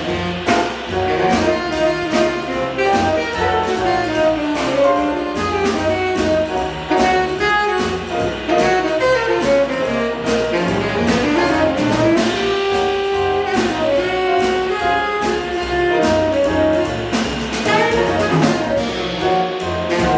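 Acoustic jazz quintet (tenor saxophone, trumpet, piano, double bass and drums) playing a bebop-style tune. A horn line runs over bass and drums with steady cymbal strokes, and holds one longer note about twelve seconds in.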